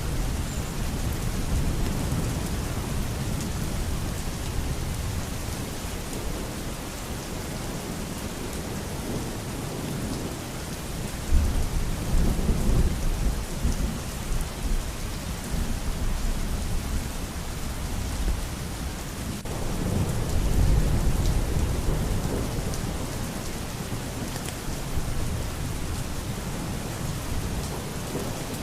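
Steady heavy rain with low rolling thunder that swells twice, about a third of the way in and again past the middle.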